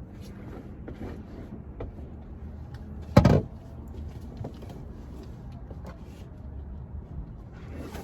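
A single loud thump about three seconds in, with a few light knocks and clicks over a low steady rumble.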